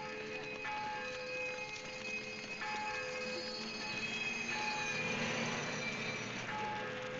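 Bells ringing in a slow repeating pattern, with a swell of rushing noise about five seconds in.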